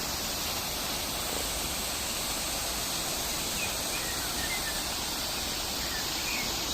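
Düden Waterfall's falling water, a steady, even rush of white water, with a few faint high chirps scattered through it.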